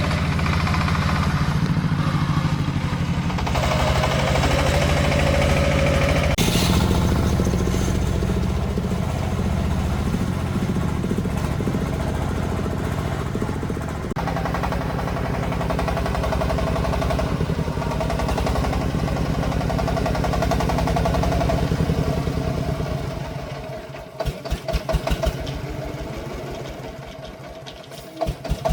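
Single-cylinder diesel engine of a công nông agricultural truck running steadily. About 23 seconds in it falls to a slow idle with separate, distinct firing beats, then picks up again near the end.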